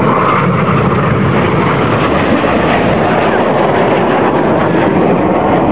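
Jet engine noise from a formation of BAE Hawk T1 display jets flying overhead, a loud, steady rush without a break.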